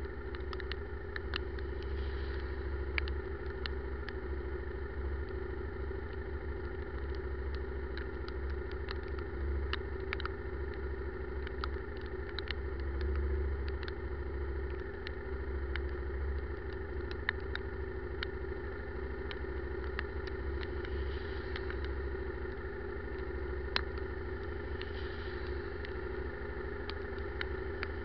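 Motorcycle engine running steadily while riding, with many scattered sharp ticks of heavy raindrops striking close to the microphone.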